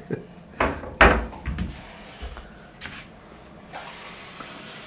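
Mouthwash being spat into a bathroom sink in a couple of loud spurts at the end of a timed dental rinse, followed by smaller sputters. Near the end the tap is turned on and water runs steadily into the sink.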